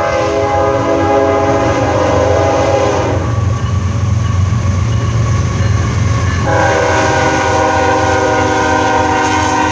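CSX freight locomotive's multi-chime air horn sounding two long blasts, the first for about three seconds and the second starting about six and a half seconds in, over the steady low rumble of the train passing at speed.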